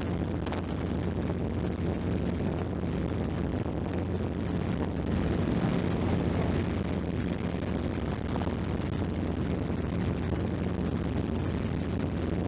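Helicopter in flight: steady rotor and engine noise with a constant low hum.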